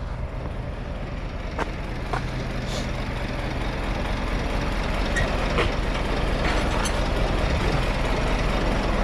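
Scania truck's diesel engine running steadily, its low hum slowly growing louder, with a few light clicks on top.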